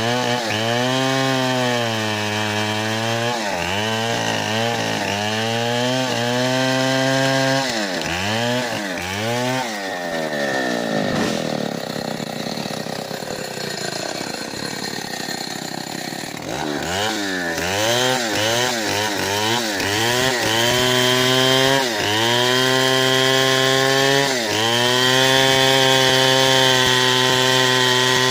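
Stihl 070 two-stroke chainsaw running at high speed while cutting wood, its pitch dipping and recovering every second or two. About halfway through, the engine speed sags low and wavers for several seconds before it revs back up to a steady high pitch.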